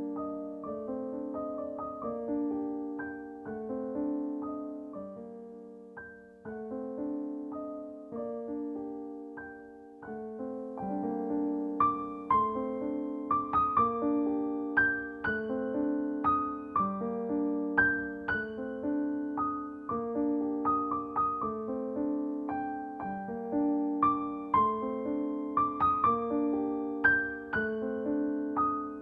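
Gentle solo piano music in a flowing, repeating pattern of notes. It grows louder and reaches higher about eleven seconds in.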